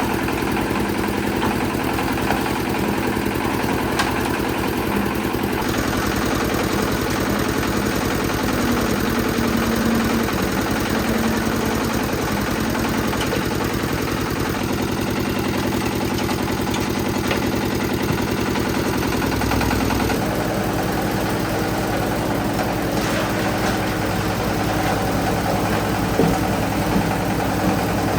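Concrete mixer's engine running steadily, its tone changing abruptly about six seconds in and again about twenty seconds in.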